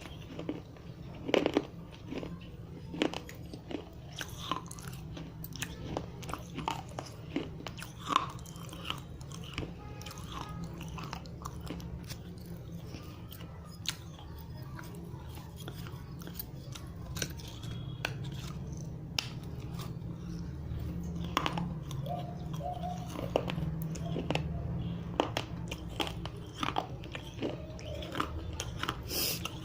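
Dry red clay diya being bitten and crunched close to the microphone: a run of sharp cracks and crunches with chewing in between. A steady low hum runs underneath.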